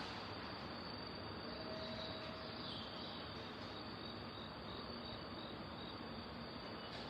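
Crickets chirping in short repeated high notes over a steady background hiss.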